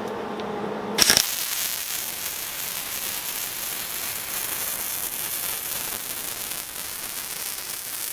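Electric welding arc struck about a second in, then burning steadily with an even crackling hiss, as a bead is laid on a steel gate hinge. A steady hum is heard before the arc starts.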